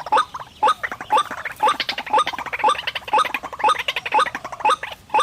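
White-breasted waterhen (ruak-ruak) calling, a rapid series of short rising notes about twice a second with chattering in between. This is the lure call used to draw the birds to a snare.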